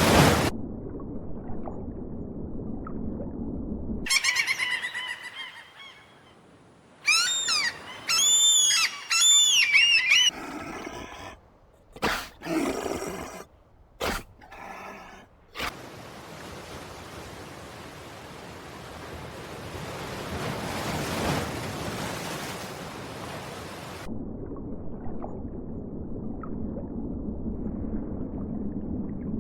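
A run of separate animal recordings. Near the middle come several loud, high calls gliding up and down in pitch, after shorter high chirps; low rumbling noise comes before them and an even hiss follows.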